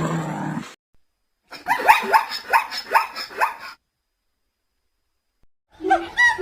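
A dog barking in a quick run of about eight sharp barks over two seconds, following the end of a lower call.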